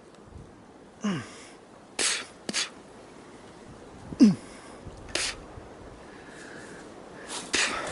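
A man's two short, sharply falling vocal sounds, like grunts, about a second in and, louder, about four seconds in, as he pushes through thorny briars. A few sharp snaps come in between.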